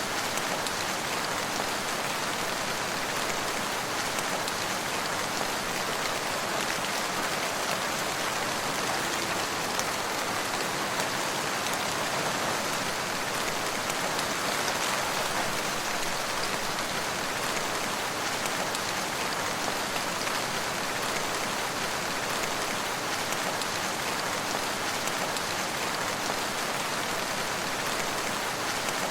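Steady rain falling on surfaces, an even continuous hiss of drops with no pauses or gusts.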